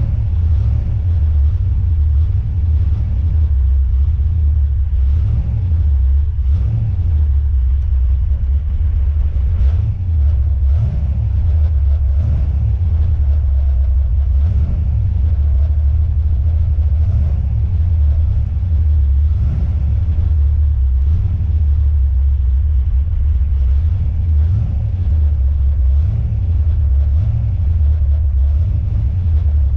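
Car driving slowly, heard from inside the cabin as a steady low rumble of engine and road, with faint, irregular clicks from the rear suspension or body over bumps. The owner cannot find anything loose and suspects the coilovers.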